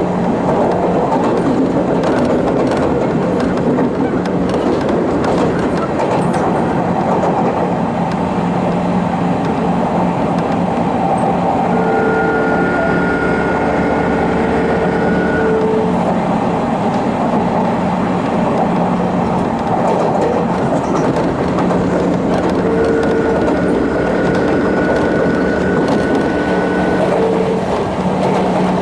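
Running noise of a Sotetsu New 7000 series electric train heard from inside motor car MoHa 7357, which has Hitachi GTO-VVVF traction equipment, running slowly. A steady low hum sits under the rumble of wheels and motors, and two spells of a steady higher tone come in for about four seconds each, around the middle and again near the end.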